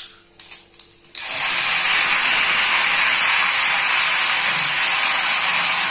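Ginger-garlic paste, ground with a little water, hitting hot mustard oil in an iron kadhai: a loud sizzle starts suddenly about a second in and carries on steadily as the wet paste fries.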